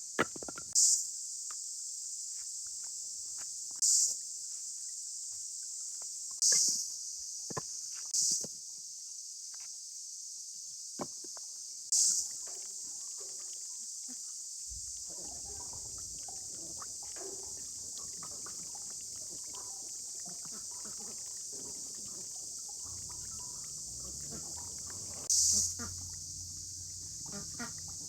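Steady high-pitched insect chorus, cricket-like, running throughout. A few sharp knocks land a few seconds apart, and from about halfway through there is low rustling and handling noise.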